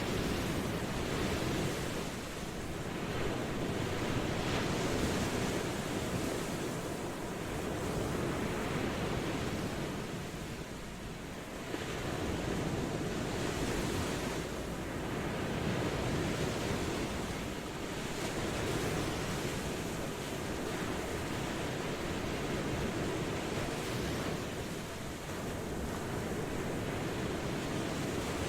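Ocean waves washing in on the shore, a steady rushing hiss that swells and ebbs every few seconds.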